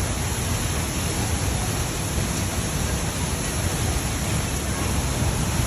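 Waterfall rushing, a steady, even noise of falling water with a heavy low rumble.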